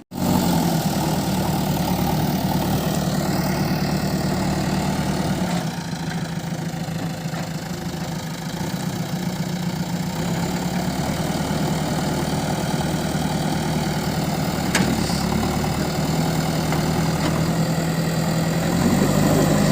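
Heavy vehicle's engine idling steadily, with a low even drone.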